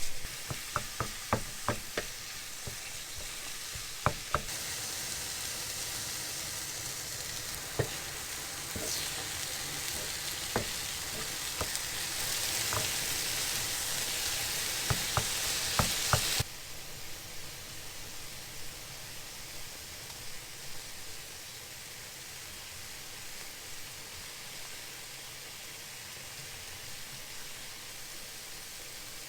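Food sizzling in a frying pan, with a utensil clicking and knocking against the pan as it is stirred. The sizzle is louder for the first half and drops off suddenly about sixteen seconds in, leaving a quieter steady sizzle.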